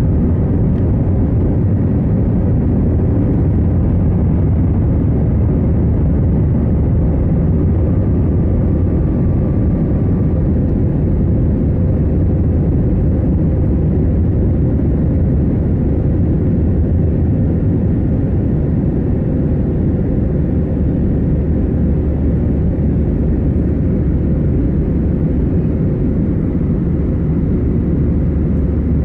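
Airliner cabin noise in flight: a steady low drone of jet engines and airflow, with no change in level.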